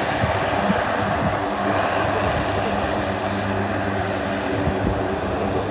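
Lockheed C-130 Hercules military transport's four turboprop engines and propellers running with a steady drone, a few steady tones riding over a broad rushing noise.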